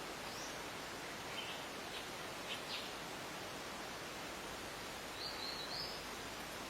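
Wild birds giving short, scattered high-pitched chirps and notes over a steady background hiss, with a brief slightly longer phrase about five seconds in.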